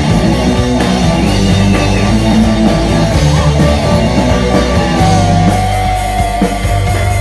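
Heavy rock music, an instrumental passage of electric guitars and drums, with a long held note coming in about five seconds in.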